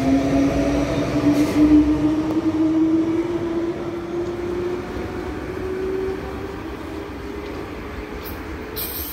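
Train accelerating away: a whine from its drive rises steadily in pitch over several seconds while the whole sound slowly fades.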